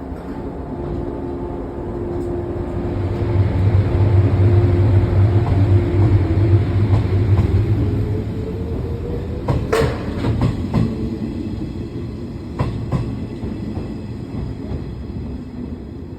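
Electric train pulling away from a standstill: a heavy low running hum with a whine rising in pitch as it gathers speed, one sharp loud sound about ten seconds in, then wheels clacking over rail joints as it rolls off.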